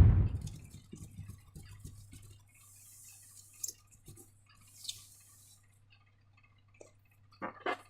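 Sticky slime being worked by hand: scattered soft wet clicks and crackles, with two brief hissing squishes about three and five seconds in and a few sharper squelches near the end.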